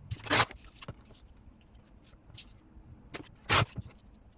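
Tea-dyed paper being torn by hand: two short rips about three seconds apart, with faint small crackles of paper handling between.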